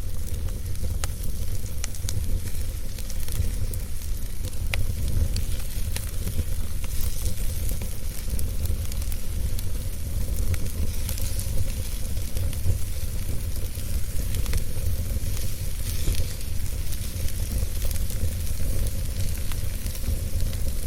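Log fire crackling, with scattered sharp pops over a steady low rumble and hiss.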